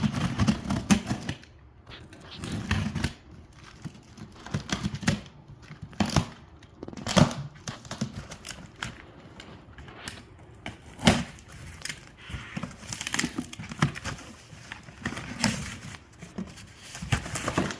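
Cardboard shipping box being cut and torn open by hand: tearing and crinkling, with scattered sharp rips and knocks at irregular intervals.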